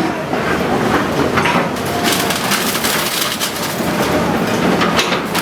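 Bulldozer crushing building debris: dense crunching and crackling with many short cracks, thickest from about two seconds in.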